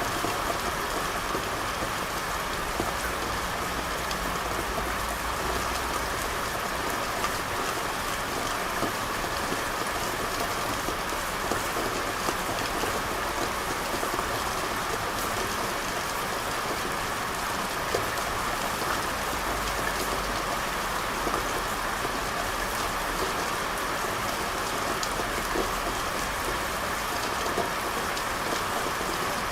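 Steady rain falling and pattering on hard surfaces, with scattered single drop hits over an even hiss and a low rumble underneath.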